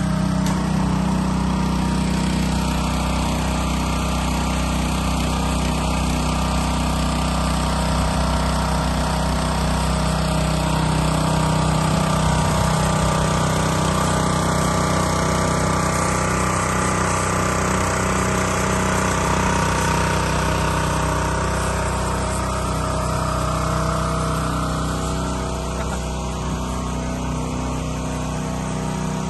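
Tsuzumi THWP 3100 petrol-engine high-pressure washer running steadily at a constant speed, growing a little quieter in the last few seconds.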